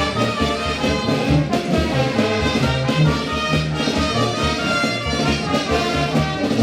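Brass band playing a marinera, with a bouncing bass line under trumpets and trombones.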